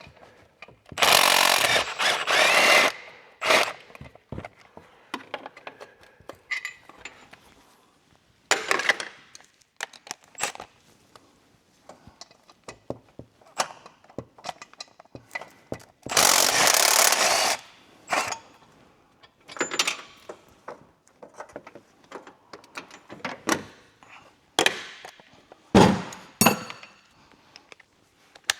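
A handheld power tool running in two bursts of about two seconds each, about a second in and again past the middle, with tools and metal parts knocking and clinking between, while factory exhaust manifold hardware comes off an engine.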